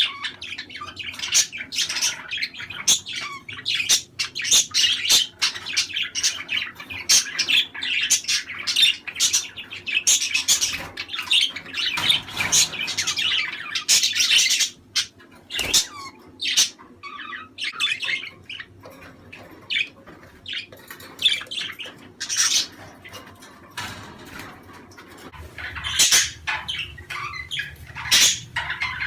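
Budgerigars chattering: a busy, continuous mix of warbling chirps, squawks and clicks, thinning out for a few seconds past the middle before picking up again.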